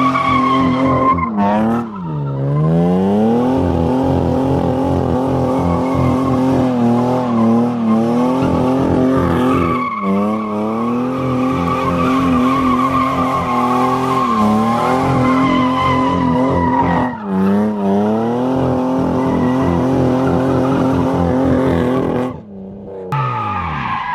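BMW E36 drift car engine held at high revs while its tyres squeal through a continuous drift, like a figure eight. The revs dip briefly a few times as the car changes direction, then fall away near the end as it comes off the throttle.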